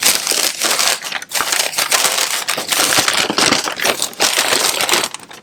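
Packaging being unwrapped by hand: steady, irregular crinkling and crackling of wrap material, easing off near the end.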